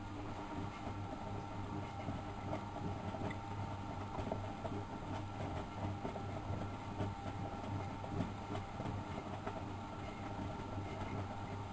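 Miele Professional WS 5105-C washing machine running, its motor turning the drum with a steady hum and whine and a scattering of small knocks and sloshes. The drum run starts right at the opening and stops a little after the end.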